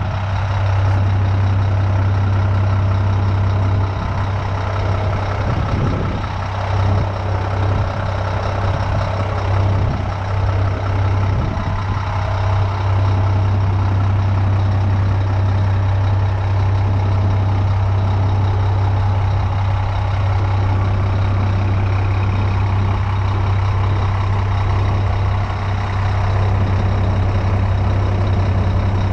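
Scania G420 truck's six-cylinder diesel engine idling steadily.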